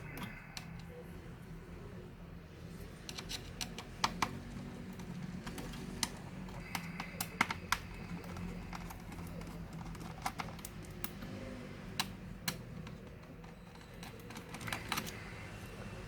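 Sporadic small clicks and taps of plastic and metal laptop parts being handled and pried during disassembly, over a low steady hum.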